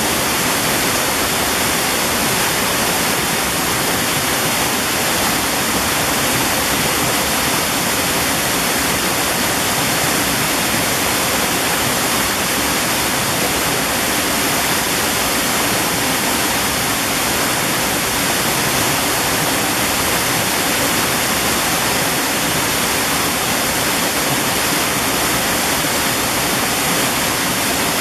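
A mountain valley stream: rushing water, a steady and even hiss with no breaks or separate splashes.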